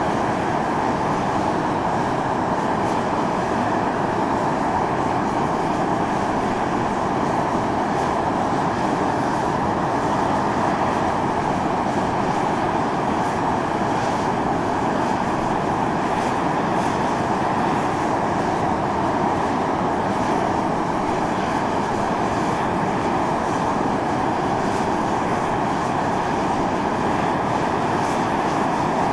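Volcanic fumarole jetting steam and gas: a steady, unbroken rushing hiss that does not rise or fall.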